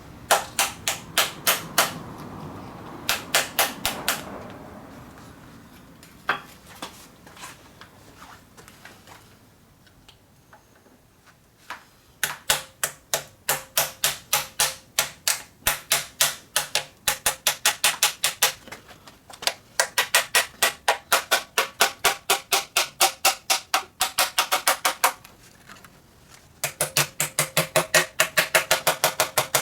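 Runs of sharp metallic taps or clicks, about four or five a second, each with a slight ring, from hand-tool work on the oil pan of a Toyota 4A-GE engine on an engine stand. The taps come in short bursts at first, then in long steady runs with brief pauses.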